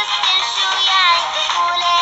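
A high-pitched voice singing a song over music backing, the melody gliding between held notes.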